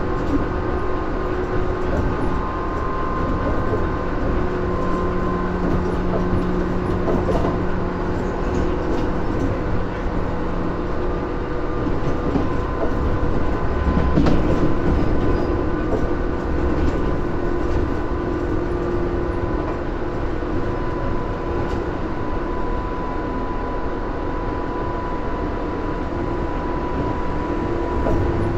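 Running sound inside a Tobu 10000 series electric commuter train travelling at a steady speed: continuous rolling noise with several whine tones held at an even pitch. About halfway through it grows louder for a moment, with a few low thumps from the wheels.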